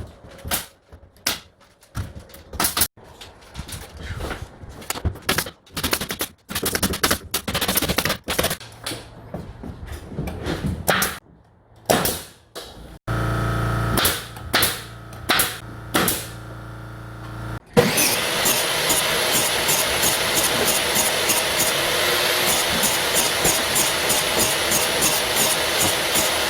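Pneumatic nail gun firing shot after shot in quick, irregular succession while ceiling boards are fastened. This is followed by a power tool running steadily for about the last ten seconds, cutting off abruptly.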